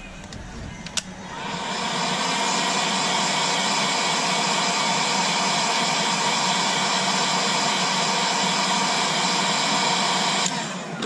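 Electric hot-air blower switched on with a click about a second in, running with a steady hiss, then cut off suddenly near the end. On a Galaxy S7 it is used to soften the adhesive under the glass back.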